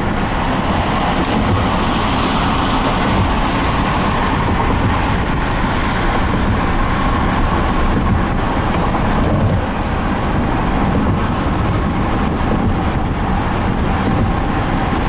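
Steady road noise of a car driving at freeway speed, heard from inside the cabin.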